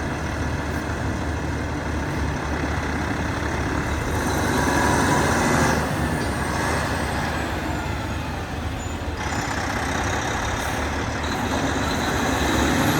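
Diesel engine of a 2011 Kenworth T800 roll-off truck running steadily, with a broader rushing noise that swells for a few seconds in the middle, loudest about six seconds in.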